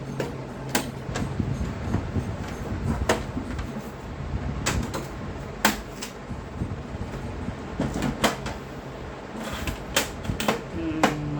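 Irregular clicks and knocks of plastic parts being handled on an HP DeskJet printer while a paper jam is cleared, about eight sharp ones spread over the stretch, over a steady low hum.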